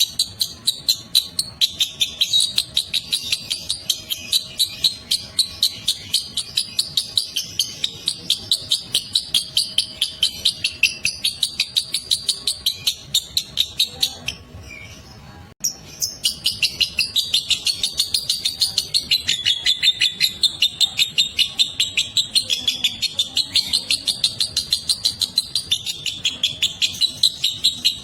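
Lovebird 'ngekek' song: a long chattering trill of rapid, high, sharp chirps repeated several times a second. It breaks off about halfway through for a second and a half, then starts again just as fast.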